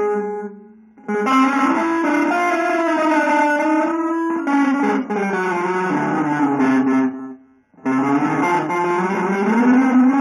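Electric guitar playing long, sustained notes that slide in pitch. The sound dies away just before a second in, then drops out again briefly around seven and a half seconds.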